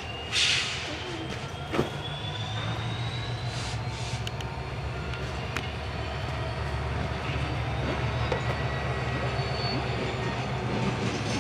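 Diesel-hauled train running by with a steady low engine rumble. A thin wheel squeal slowly rises in pitch over the first few seconds, with a brief hiss and a sharp click near the start.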